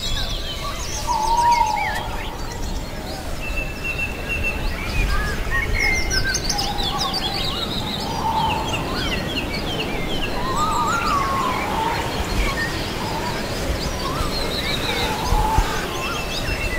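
Many birds chirping and trilling over one another in a forest soundscape, with lower warbling calls a few times, over a steady low background noise.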